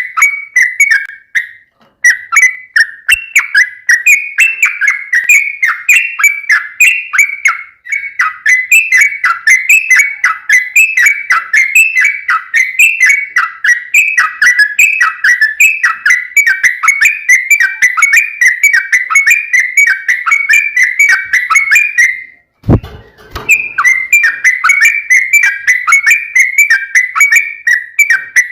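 Yellow-vented bulbul (trucukan) song: a loud, unbroken run of quick, bubbly chirping phrases repeated several times a second, the long rapid 'ropel' song. Near the end it breaks off briefly with a low thump, then resumes.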